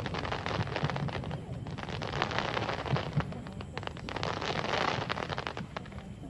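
Fireworks crackling: a dense, rapid crackle of many small pops from crackling stars, thinning out near the end.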